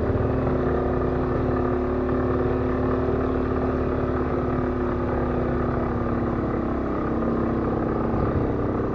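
Aprilia scooter's engine running under heavy load, climbing a steep road with a rider and pillion, its note slowly sagging in pitch as it strains to pull.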